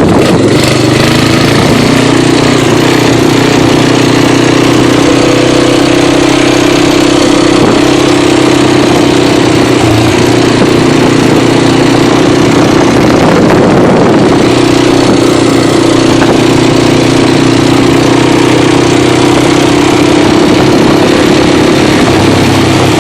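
Four-wheeler (ATV) engine running loud and steady at an even pitch, with a brief unsettled moment about fourteen seconds in.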